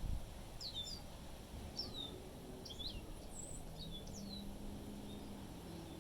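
Small songbirds giving a series of short chirps that sweep downward in pitch, about a handful in quick pairs through the first four and a half seconds, over a steady low rumble of wind.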